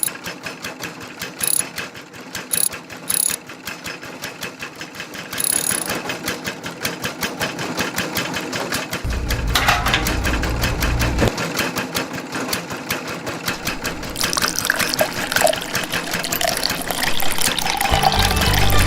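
A small motor-driven mechanism running with a rapid, even ticking.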